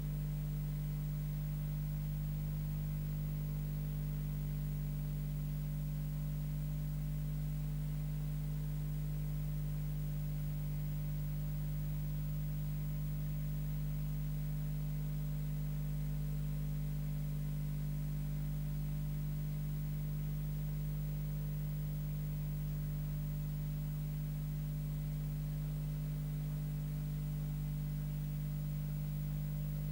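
Steady electrical hum made of several constant low tones over a faint hiss, unchanging throughout.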